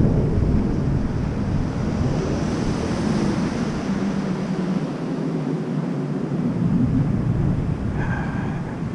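Steady rumble of travel along a street, with wind noise on the microphone; the low rumble eases off about halfway through.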